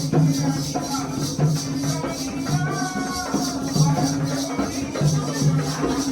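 Jakhadi folk dance music: a fast, even jingling of shaken metal jingles over repeated low drum strokes, with a short melody weaving above.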